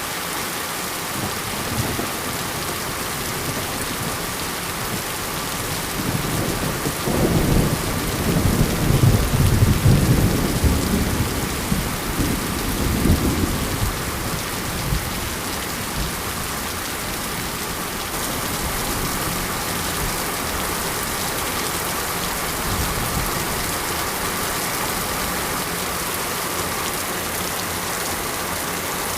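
Steady monsoon rain falling, with a roll of thunder that rumbles up about six seconds in, peaks a few seconds later and dies away by about fourteen seconds.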